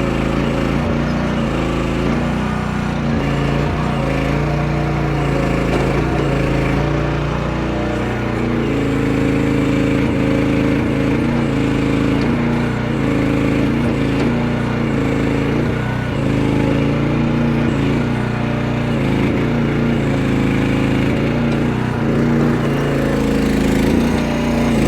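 Chinese mini excavator's small engine running under load, its note dipping and rising repeatedly as the machine works.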